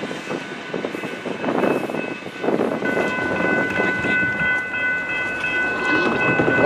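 A train rolling past, its wheels clicking over the rail joints under a steady rumble. About three seconds in, a steady high-pitched ringing tone joins in and holds.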